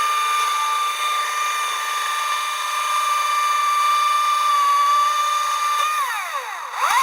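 Two-stroke chainsaw running at full throttle, a steady high whine for about six seconds. The throttle then lets off and the revs fall, followed by a short rev-up and drop near the end.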